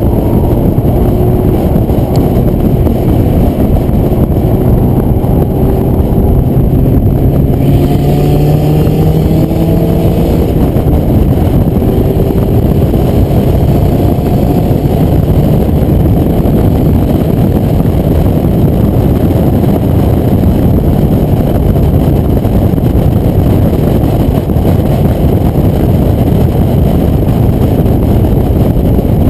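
Porsche 944 Turbo's turbocharged four-cylinder engine pulling at track speed, buried in heavy wind and road rush through the open window. A few rising engine notes show in the first half as it accelerates, then it settles into a steady loud rush.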